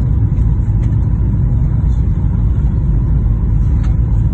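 Steady low rumble of an airliner heard from inside the cabin, with a faint steady whine above it.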